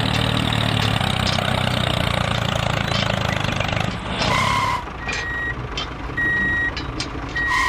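A small machine's motor runs steadily with a low rumble, then drops away about four seconds in. After that comes a string of short, high electronic beeps, each about half a second long, four or five in all.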